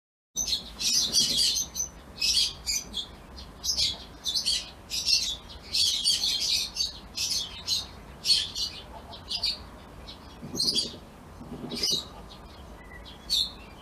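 Bird chirping: short, high calls repeated one or two a second over a faint steady background.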